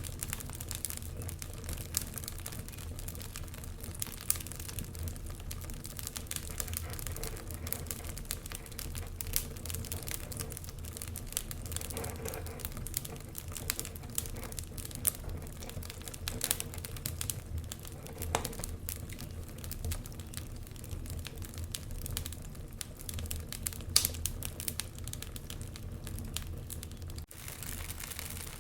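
Wood fire in a fireplace crackling and popping, with many irregular sharp snaps over a low steady rumble.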